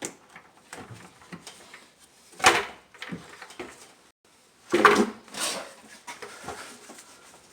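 Intake manifold being shifted and seated on the engine: scattered knocks and scrapes of hard parts, with two louder clunks about two and a half and five seconds in.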